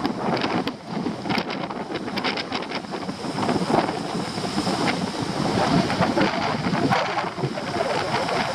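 Strong storm wind buffeting the microphone over stormy sea surf breaking on rocks, with many short crackles in the gusts.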